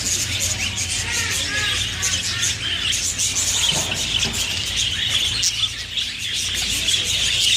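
Songbirds chirping and twittering in a dense chorus of many quick, overlapping calls, over a low steady hum.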